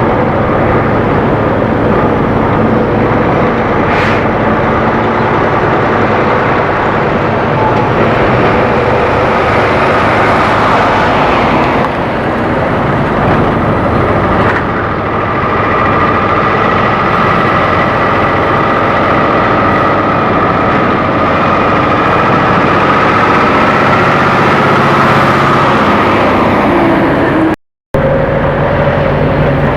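Semi trucks driving by: steady diesel engine and tyre noise, with a long faint whine through the middle, and the sound cutting out for a moment near the end.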